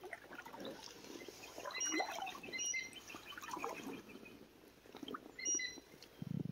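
Faint bird chirps, a cluster of short high calls about two seconds in and again about five and a half seconds in, over soft sloshing of shallow creek water around wading legs, with a brief low thud near the end.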